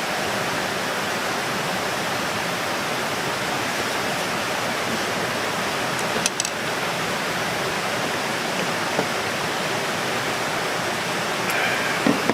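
Steady rushing of water with an even hiss, broken by a short click about halfway through and a couple of light knocks near the end.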